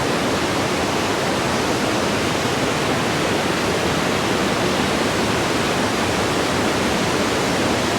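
Waterfall pouring close by: a loud, steady rush of falling water that does not change.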